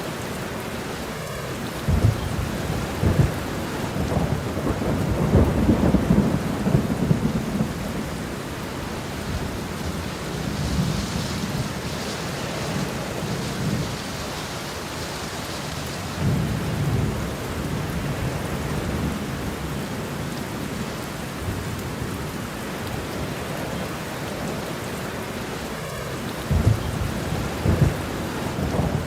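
Steady rain with thunder rumbling low in the background, swelling about two seconds in, again in the middle, and near the end.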